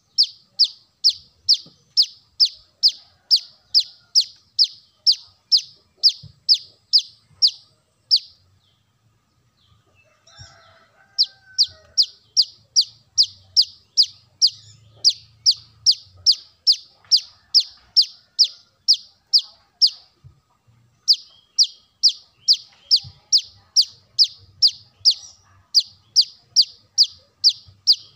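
Brown-throated sunbird (kolibri kelapa) calling: a fast series of sharp, high chip notes, each slurring downward, about two to three a second. The notes come in three long runs with short breaks about eight and twenty seconds in.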